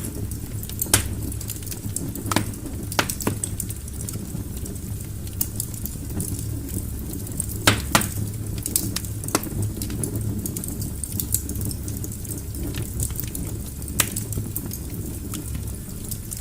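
Wood fire burning in a fireplace: a steady low rumble of flames with irregular sharp crackles and pops from the logs, the loudest about a second in, near the middle, and near the end.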